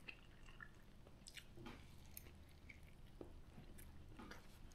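Near silence with faint chewing of a fried chicken burger: scattered soft wet mouth smacks and clicks.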